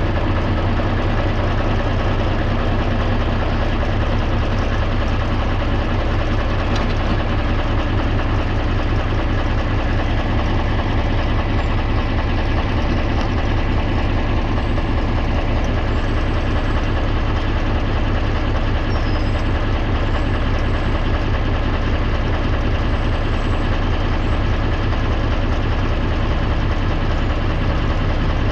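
Farm tractor engine running steadily at an even speed, with a low, constant engine note.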